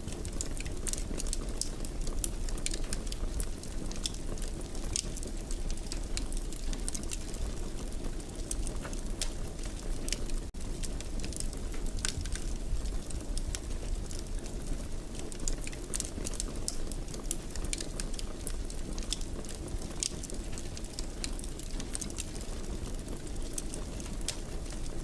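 Wood fire in a fireplace crackling, with irregular sharp pops and snaps over a steady low rumble of the flames. The sound drops out for a moment about ten seconds in.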